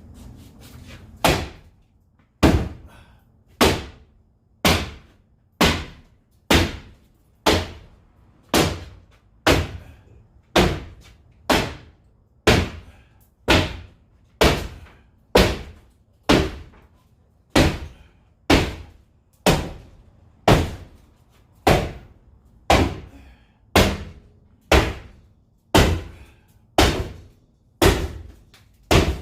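Hammer striking wood over and over at an even pace of about one blow a second, each a sharp thunk with a short ring, as boards are knocked apart.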